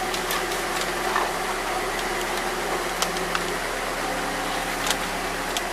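A car engine idling steadily in the background, with a few small clicks of something being handled.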